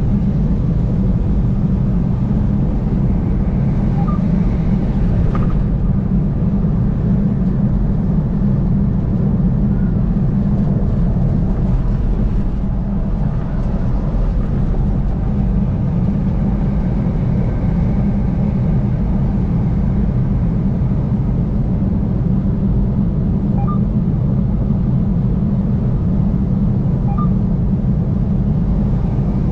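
A car driving steadily along the interstate: a constant low road and engine rumble with tyre noise, no change in pace.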